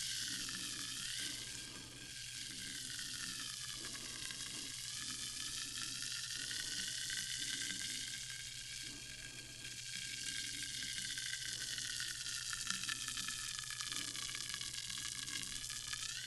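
Sparkling water fizzing, the carbonation bubbles popping in a steady crackling hiss, with a faint steady low hum underneath.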